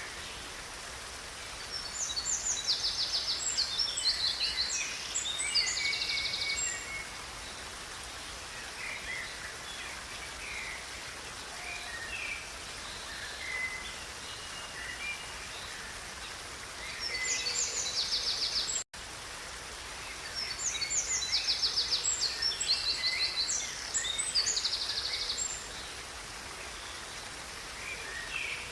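Songbirds singing over the steady rush of a river: two bouts of fast, high trilled song a few seconds in and again about two-thirds through, with scattered chirps between. The sound cuts out for an instant just before the second bout.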